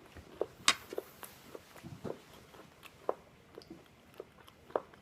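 Close-up chewing and biting of a crunchy, burnt toaster waffle: irregular crisp crunches and clicks, the sharpest about a second in.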